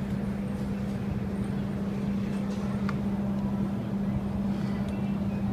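Engine of a tourist cruise boat running steadily under way, heard on board: a constant low drone over the rush of the boat moving through water.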